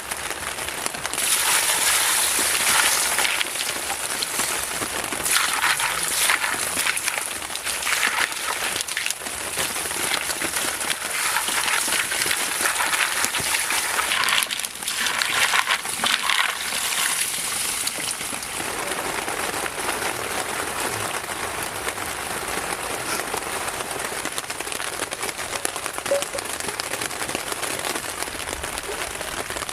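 Heavy rain falling, a dense pattering hiss of drops. It comes in louder surges through the first half and settles to a steadier, softer fall after about eighteen seconds.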